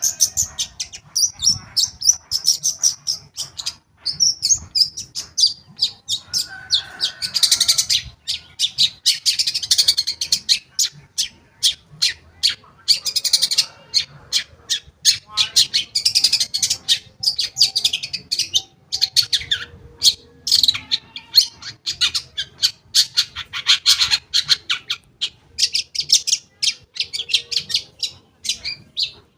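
Long-tailed shrike (cendet) singing a fast, continuous chattering song of short, high notes, delivered in rapid phrases with brief gaps between them. The song is a full one, laced with mimicked phrases of other birds.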